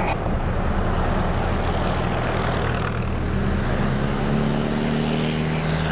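A motor vehicle engine running steadily under road and wind noise; its note rises a little from about halfway through as it speeds up.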